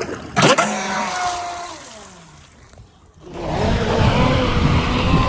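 ProBoat Recoil 2 RC speedboat's brushless motor running on the water. After a sharp knock about half a second in, its whine falls in pitch and fades almost away. About three seconds in it comes back louder with a wavering pitch over the rush of water.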